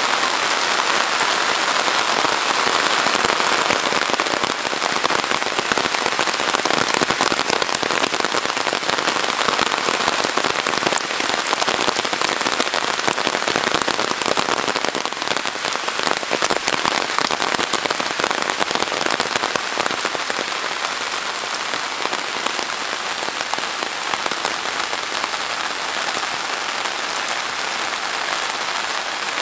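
Heavy rain falling steadily: a dense, even hiss made of countless fine drop hits, easing slightly after the first third.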